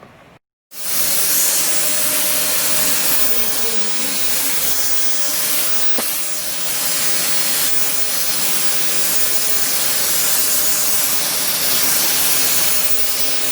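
JK-8 portable mini vacuum cleaner with a 1,000-watt motor, running steadily at full suction with a loud, airy hiss that starts about a second in.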